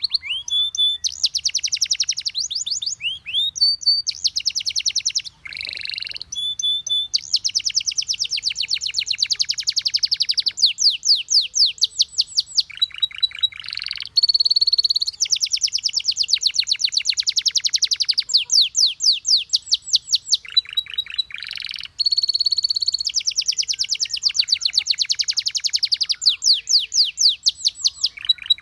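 Canary singing a long, unbroken song of fast trills and rolls: each run of rapidly repeated high notes lasts a second or two before switching to another, with a few quick sweeping notes between.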